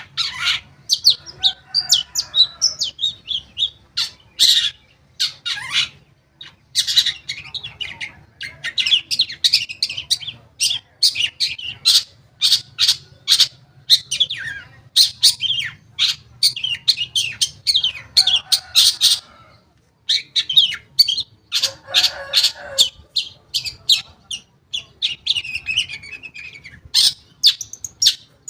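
Long-tailed shrike (cendet) singing a fast, near-continuous run of chattering notes and harsh squawks, broken by a couple of brief pauses.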